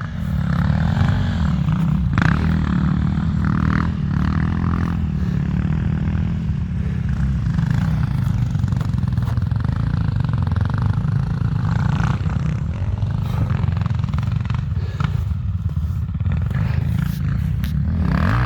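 Enduro motorcycle engine running steadily at low revs, its pitch rising and falling with the throttle.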